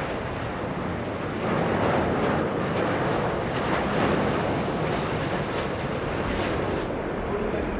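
Jet aircraft engine noise during a display flight: a steady rushing that swells a little about a second and a half in and stays strong.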